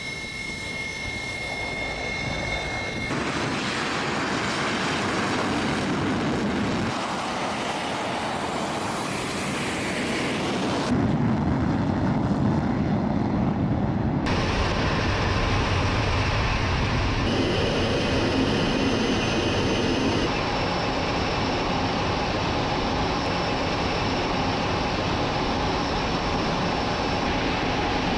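Fighter jet engines running, heard across several spliced shots whose sound changes abruptly about 3, 11, 14, 17 and 20 seconds in. A steady high whine sits over the engine noise for the first three seconds.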